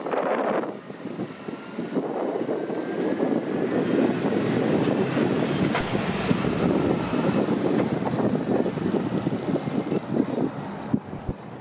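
A train running past, a loud steady rumble that builds after a brief dip, is strongest mid-way and eases off near the end, with a faint rising whine early on and wind buffeting the microphone.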